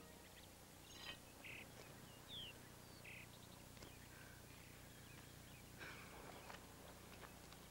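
Near silence: faint outdoor quiet with a few short bird chirps, one of them falling in pitch, and a couple of soft clicks.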